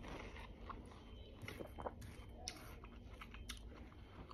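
Person chewing a mouthful of juicy watermelon close to the microphone: soft, wet chewing with scattered small clicks.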